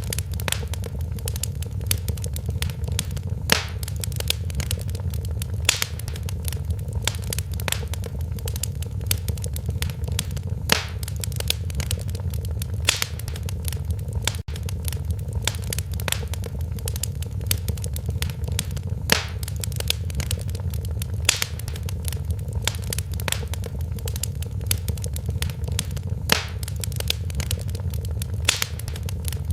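Wood fire in a fireplace crackling steadily over a low rumble of flames, with sharper pops every second or two. The sound cuts out for an instant about halfway through.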